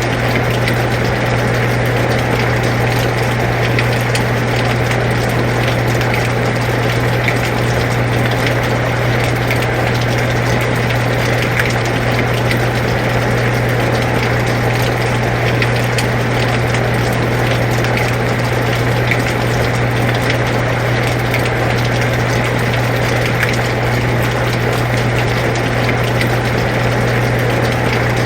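Air conditioner running with a steady low hum, together with steady rain.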